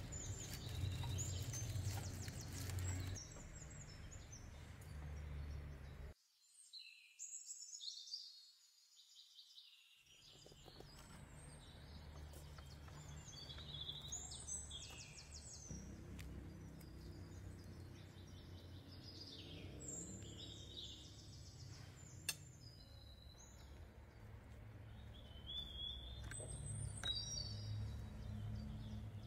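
Small birds chirping and singing over a low steady background rumble, with one sharp click about three quarters of the way through.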